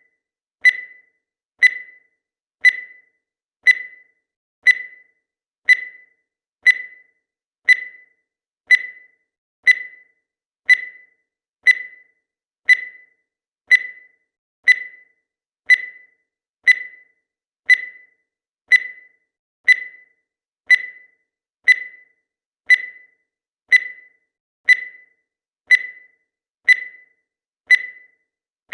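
Countdown timer sound effect: a short, high tick-beep once a second, each one dying away quickly, steady throughout.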